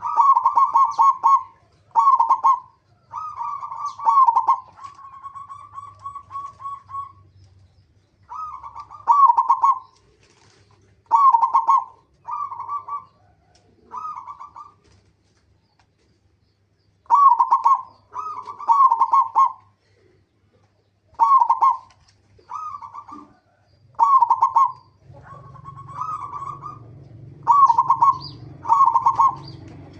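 Zebra dove (perkutut) cooing: short phrases of fast-pulsed coos, repeated every second or two with brief pauses between runs. A low hum comes in over the last few seconds.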